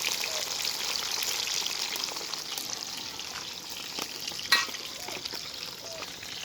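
Fish frying in hot oil in a pot, a steady crackling sizzle. About four and a half seconds in there is one sharp clink, the loudest sound.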